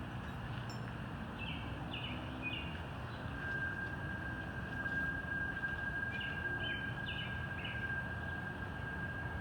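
Outdoor ambience: steady background noise with a bird calling in two short series of quick notes. A thin, steady high tone comes in about a third of the way through.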